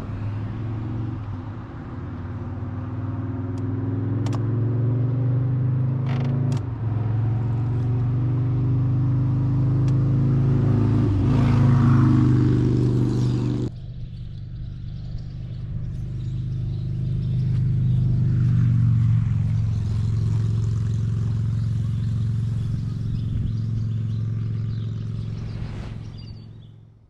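A vehicle engine running steadily with a low, even drone, with an abrupt break about fourteen seconds in, then fading out at the end.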